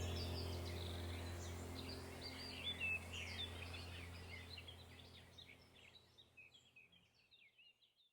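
Many small birds chirping and twittering over a low steady drone, the whole track fading out gradually to silence.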